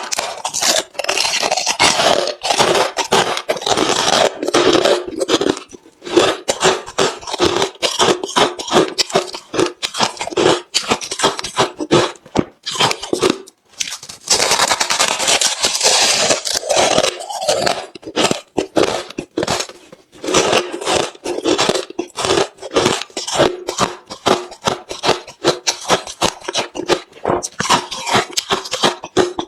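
Close-miked mouth crunching and chewing of hard refrozen crushed ice: thick stretches of crunching near the start and again about midway, with quick rapid chewing crunches between.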